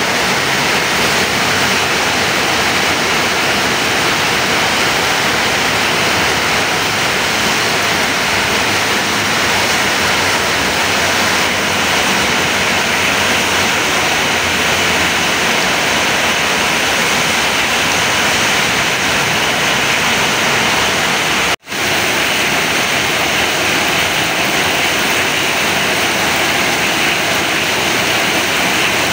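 Heavy downpour of rain falling steadily on the street and pavement, a dense even hiss. It breaks off for a split second about three-quarters of the way through.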